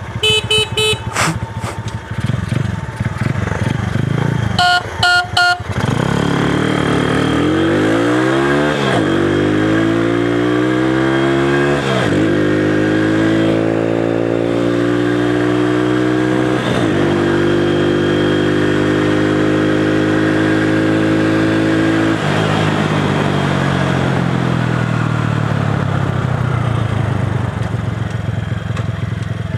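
Small single-cylinder motorcycle engine accelerating hard from a launch, its pitch climbing in each gear and dropping at three upshifts, then holding steady at speed before falling away as the throttle is closed and the bike slows.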